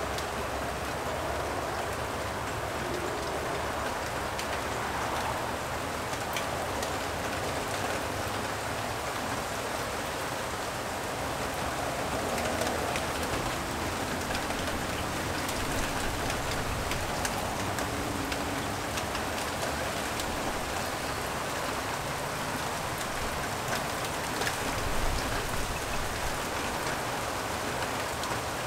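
Steady light rain falling, with many individual drops ticking close by, and a brief low thump near the end.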